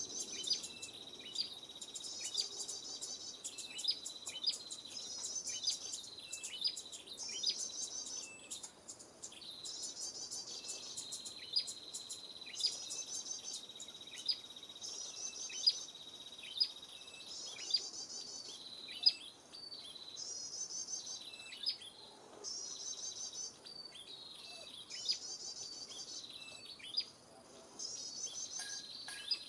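Small-bird lure call (pikat) playing: a steady high insect-like whine with short bird trills repeating about every one and a half to two seconds and sharp chirps scattered over it.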